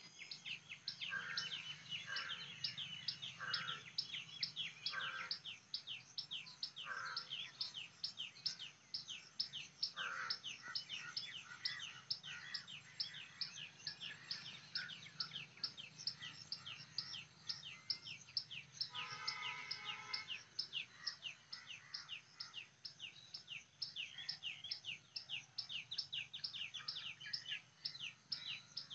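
Birds chirping outdoors: a quick run of short, high, falling chirps about three a second that never lets up, with a few lower falling calls in the first third and a brief harsher call about two-thirds of the way through.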